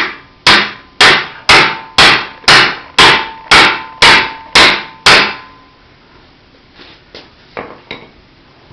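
A tire iron hammered against the metal inside a Suzuki Boulevard C50/M50 muffler: about eleven hard metal strikes, two a second, each with a short ring, beating a hole through the internal baffle. A few fainter knocks follow near the end.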